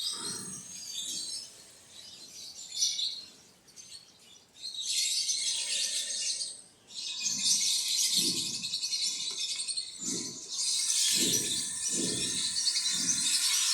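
A flock of quail chirping and chattering, thickening into a dense continuous chorus about five seconds in, over a string of short low thuds.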